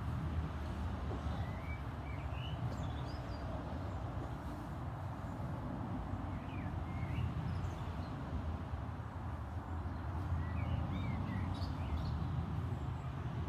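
Steady low outdoor rumble, with a small bird chirping in three short bursts about four seconds apart.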